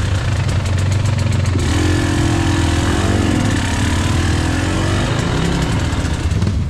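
KTM EXC 300 two-stroke enduro motorcycle engine running at low to moderate revs, its pitch rising and falling with the throttle. A rapid run of sharp clicks comes through in the first second and a half.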